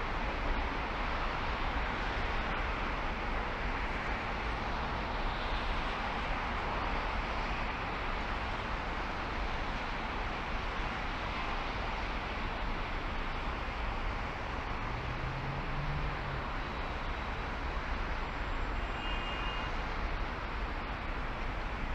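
A car driving along: steady road and wind noise with a low rumble from the tyres, even throughout.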